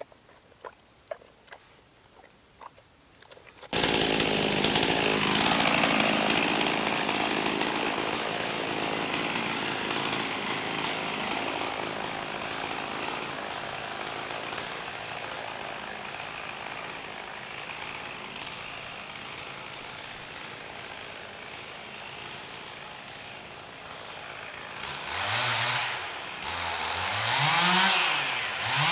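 A few faint clicks in quiet, then about four seconds in a chainsaw starts sounding suddenly and runs steadily at high speed. Near the end its engine revs up and down several times.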